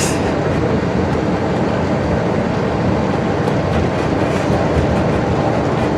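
Steady road noise inside a moving tour bus: engine and tyres running evenly.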